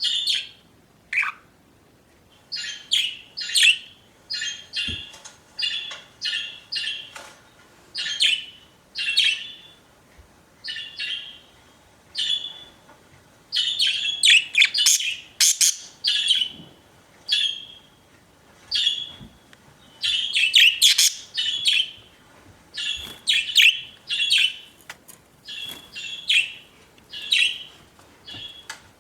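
Pet budgerigars chirping in quick bursts of short calls, one burst every second or so, with busier stretches about halfway and two thirds of the way through.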